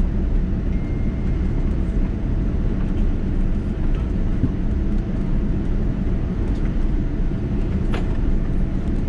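Cabin noise inside a Boeing 787-9 rolling on the ground after landing: a steady low rumble from the wheels and airframe, with a few light rattles, one sharper near the end.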